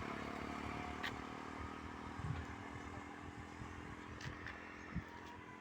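A motor engine running with a steady hum that slowly fades away, with a few scattered clicks and knocks.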